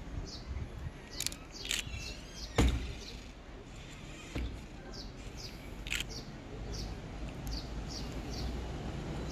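A small bird chirping: short, high chirps repeated every half second or so, over a steady low outdoor rumble. A few sharp knocks break in, the loudest about two and a half seconds in.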